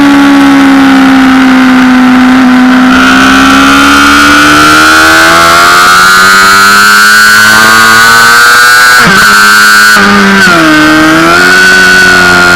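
Honda CBR600RR inline-four sport bike engine at high revs, recorded onboard, loud. Its pitch sags for the first couple of seconds, then climbs steadily as the bike accelerates, breaks sharply about nine seconds in and drops again around ten and a half seconds in, at what sound like gear changes.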